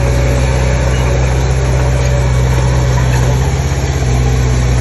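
Heavy earthmoving machine's diesel engine running steadily, a deep engine note whose pitch shifts slightly about four seconds in.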